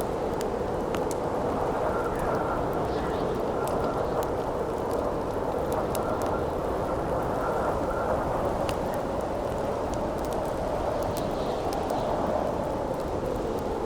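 Wind blowing steadily with a faint whistling tone that comes and goes, over a wood campfire crackling with sharp, scattered pops.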